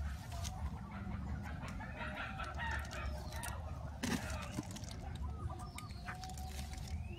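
Chicken calling in a run of clucks over a steady low rumble, with a sharp click about four seconds in.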